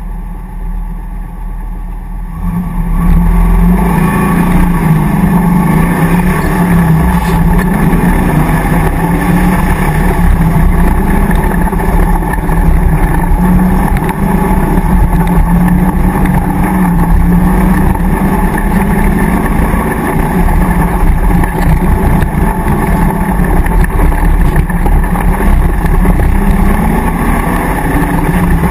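Land Rover V8 off-road racer's engine idling, then opening up hard about two and a half seconds in as the car launches from the start. It then runs loud at high revs, its pitch rising and falling.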